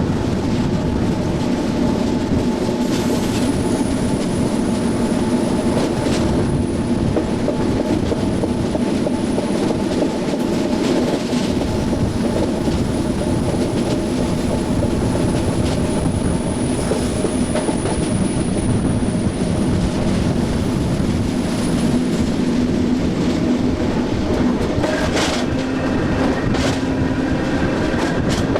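SNCB AM80 electric multiple unit under way: the steady hum and whine of its traction motors over the rumble of wheels on the track. Near the end come a few sharp clacks of the wheels over rail joints, and a higher tone joins in.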